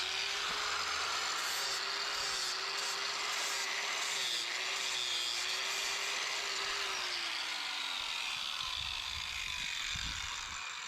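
Angle grinder with a flap disc grinding down the sharp edges of steel roller-mounting brackets. A steady grinding hiss runs throughout, with the motor's pitch wavering as the disc is pressed into the metal. The motor pitch falls away about eight seconds in.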